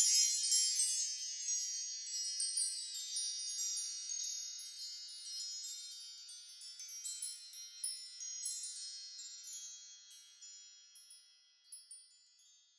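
Chimes tinkling: many high, ringing notes struck in quick succession, thinning out and dying away over about eleven seconds.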